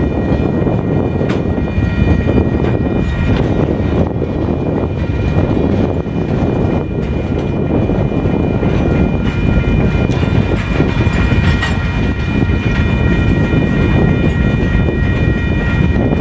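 Freight cars (covered hoppers, a boxcar and tank cars) rolling past a grade crossing, with a continuous wheel-on-rail rumble and scattered clicks of wheels over the rail. Steady high-pitched ringing tones sound over the rumble throughout.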